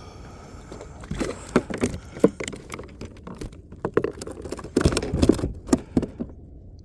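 Hooked flounder splashing beside a kayak as it is brought in, with a string of irregular knocks and rattles against the hull and gear; the knocks are densest and loudest near the end.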